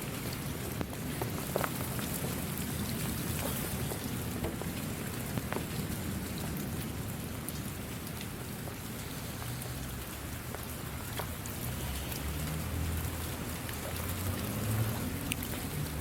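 Steady rainfall with scattered distinct drops ticking on a surface, and a low rumble swelling up in the last few seconds.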